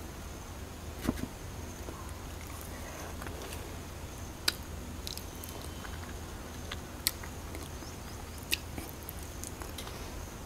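A person chewing and eating soft ripe nom khwai (Uvaria) fruit close to the microphone, with four or five sharp isolated mouth clicks spread across the time.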